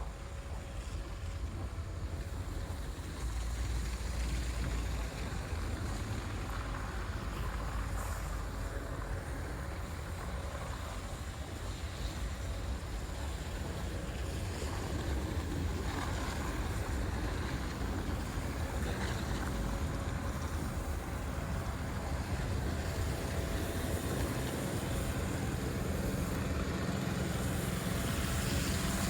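Wind rumbling on the microphone over steady city street noise, with a vehicle engine growing louder near the end.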